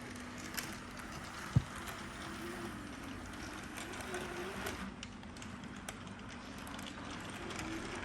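Bachmann 2-8-0 model steam locomotive running slowly on its track: a faint motor and gear whir with scattered light clicks. There is a single sharp knock about one and a half seconds in.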